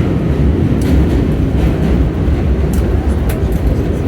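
Subway train running, a steady low rumble with a few short clicks and rattles from the car.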